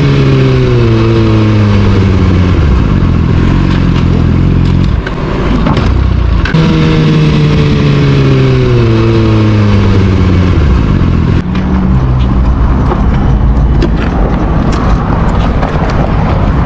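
Suzuki sport bike engine running at speed over heavy wind rush, its revs falling twice as the throttle is rolled off, the first time at the start and again about six and a half seconds in.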